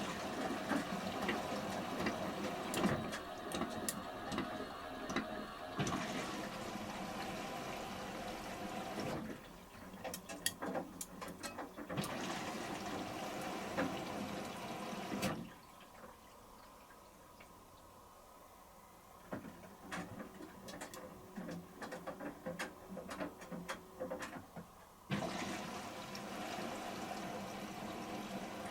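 Samsung front-loading washing machine filling with water for its final rinse: water rushing in through the inlet, cutting out briefly and then for about ten seconds before starting again. In the quieter gaps the drum turns with light sloshing and clicks.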